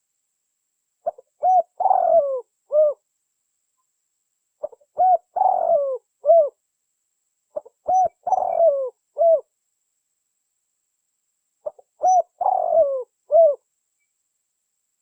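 Spotted dove (tekukur) cooing, played as a lure call: four calls a few seconds apart, each a couple of short coos, then a longer coo falling in pitch, then a short final coo.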